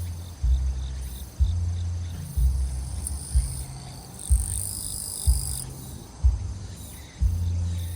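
Grass insects such as crickets trilling steadily, under a heavy bass beat from nearby music thumping about once a second. A louder, higher buzz joins for about a second and a half in the middle.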